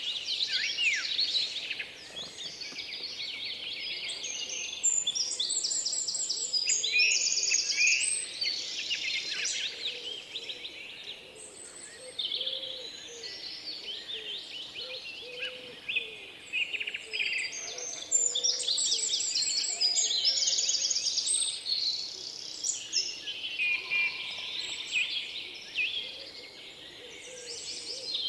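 Many small songbirds singing and chirping over one another in a dense, continuous chorus of quick trills and twitters.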